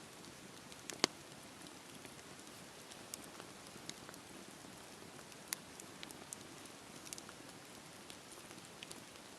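Wood fire burning with a soft steady hiss and irregular sharp crackles and pops, the loudest pop about a second in.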